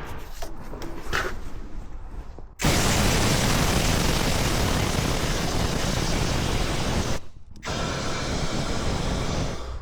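Compressed-air blow gun blasting kerosene out of a cleaned CV joint: a loud, steady hiss that starts suddenly a few seconds in, breaks off briefly, then blows again. Faint clinks of metal parts being handled come first.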